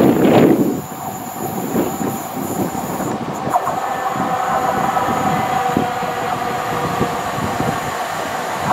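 Class 172 diesel multiple unit running toward the listener around curved track. A loud rush of noise in the first second gives way to a steady squealing whine from the wheels on the curve, with a few clicks over the rail joints and points.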